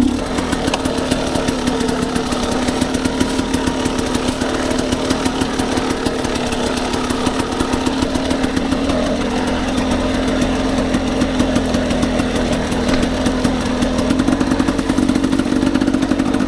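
Dirt bike engine running at low, fairly steady revs while riding slowly along a trail, with the pitch easing up and down a little.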